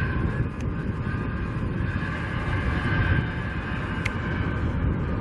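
Steady low rumble of heavy construction machinery with faint steady whining tones above it, and wind buffeting the microphone.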